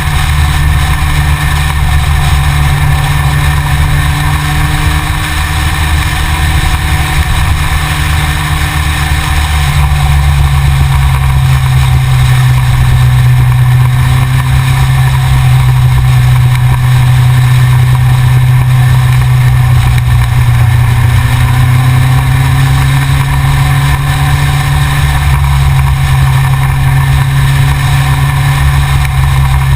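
Yamaha XJR motorcycle engine running steadily under way, picked up by a camera mounted on the front of the bike. Its note changes about a third of the way through and then holds a steady drone.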